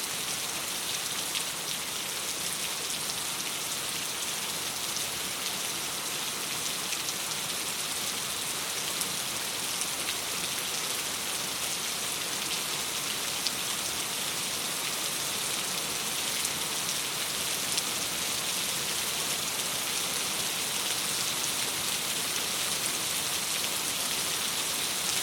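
Steady rain on a window, an even hiss with scattered small drop ticks.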